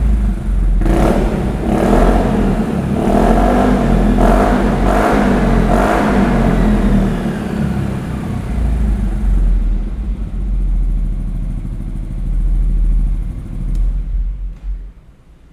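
Yamaha XMAX 250 scooter's single-cylinder engine through an aftermarket ProSpeed exhaust, blipped about six times in quick succession, then settling to idle and fading out near the end.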